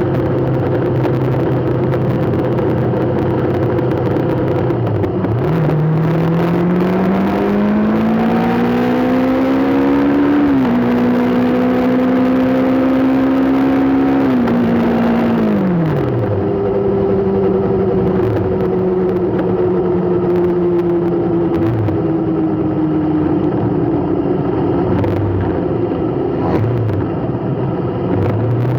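Car engine idling, then rising in pitch as the vehicle pulls away, with a step in pitch about ten seconds in like a gear change, and easing off after about fifteen seconds. A slower falling engine tone follows, over steady road noise.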